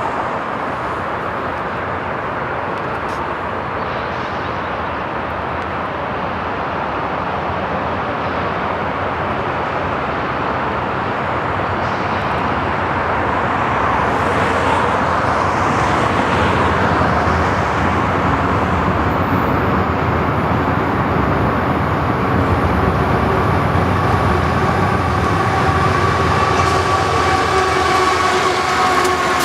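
CSX intermodal freight train rolling by, a steady rumble of steel wheels on rail that grows gradually louder. Thin, steady wheel-squeal tones rise faintly out of it in the last several seconds.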